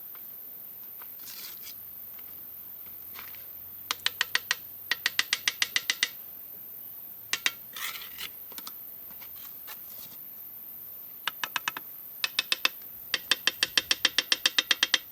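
Runs of quick, sharp taps, about six a second, each with a light metallic ring. Two runs come in the middle and a longer one near the end, with a short scrape about a second and a half in and another about eight seconds in.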